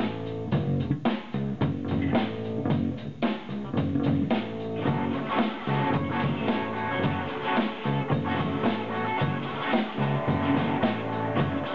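A rock band playing live: guitar and bass over a drum kit keeping a steady beat.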